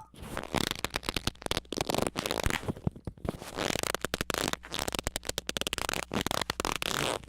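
Harsh crackling noise: a dense, irregular run of rapid sharp clicks with no steady pitch.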